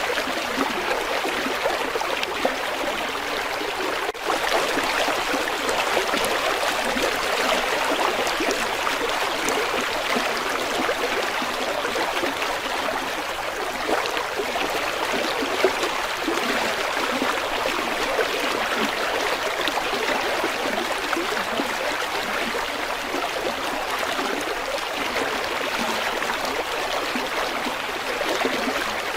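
River water flowing and babbling over rocks, a steady rushing with a fine gurgling texture.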